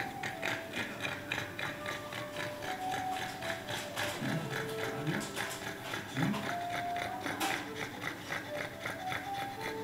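A pug breathing fast and noisily, raspy snorting pants at about four a second, with quiet background music.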